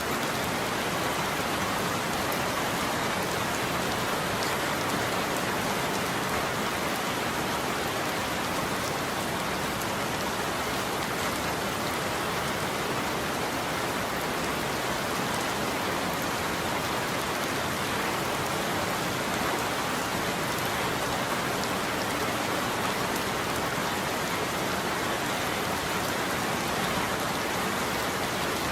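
Steady heavy rain falling on a surface, an even hiss with fine patter of drops and no thunder.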